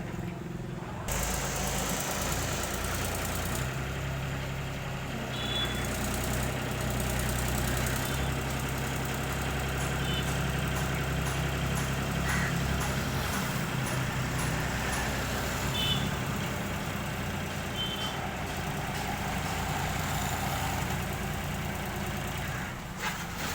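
Diesel engine of an old Mahindra 265 tractor with a front loader, running under load as the loader works. Its note changes a few times: about a second in, around four seconds, and near the middle.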